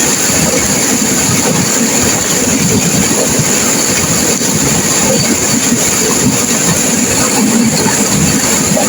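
Turbulent river water rushing and crashing, a loud, steady wash of noise without pauses.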